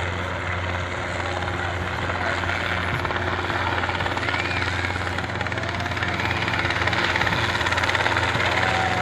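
Helicopter rotor and engine running in a steady low drone, growing slightly louder as it comes in.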